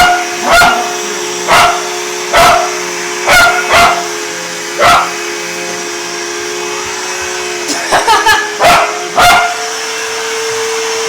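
A dog barking over and over at a running vacuum cleaner, whose motor hums steadily underneath. The barks come singly about once a second, then in a quick burst of four about eight seconds in, then stop, leaving the vacuum running alone at a slightly higher pitch.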